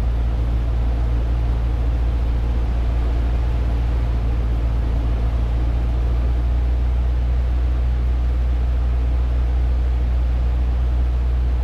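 Cessna 150's four-cylinder Continental O-200 engine and propeller running steadily in flight, a constant low drone.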